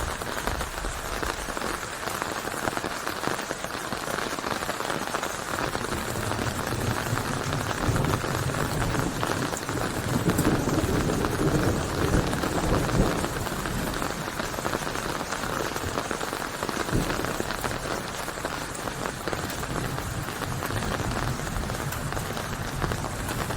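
Steady rain falling, a continuous hiss of drops that grows a little louder and fuller for a few seconds midway.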